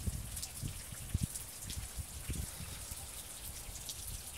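Rain starting to fall in scattered heavy drops, many irregular drop ticks over a steady hiss, with irregular low thumps.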